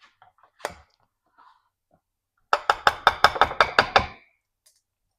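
Knocking in a kitchen: one knock about two-thirds of a second in, then a quick run of about a dozen sharp knocks, roughly eight a second, lasting about a second and a half.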